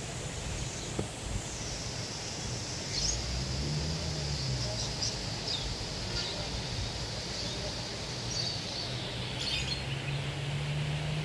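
Birds chirping, a few short scattered calls, over a steady high outdoor background hiss.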